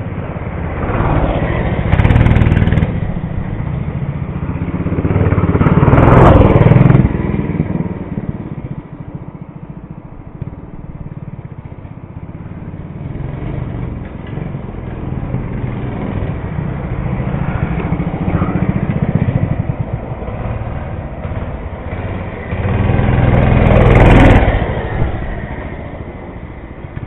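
Mini bike engine revving up and easing off as the bike is ridden around. It swells loudest about six seconds in and again near the end, and runs lower in between.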